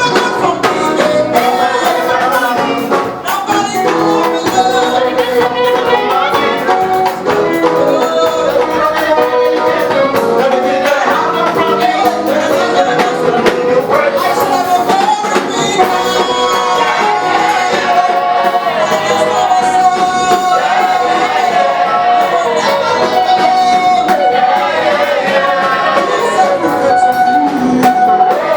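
Gospel praise music: singers with a live band, tambourine among the instruments, playing steadily.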